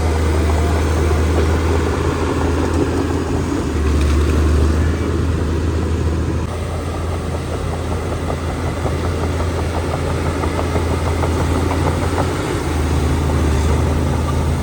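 Heavy diesel earthmoving machinery running steadily with a deep engine drone, swelling slightly a few times.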